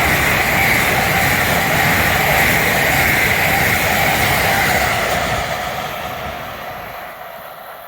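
Amtrak Northeast Regional train, led by an ACS-64 electric locomotive, passing on the track: a loud, steady rush of wheels on rail that fades away over the last few seconds as the train recedes.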